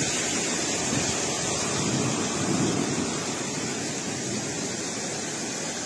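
Heavy rain pouring down steadily, a dense even hiss of rainfall with no let-up.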